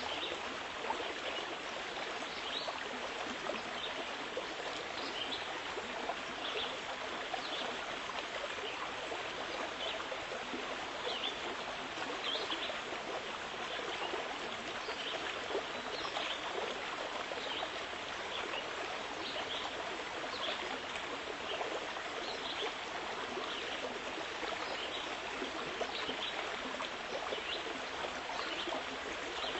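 Running water flowing steadily, like a babbling stream, with many small high plinks scattered through it.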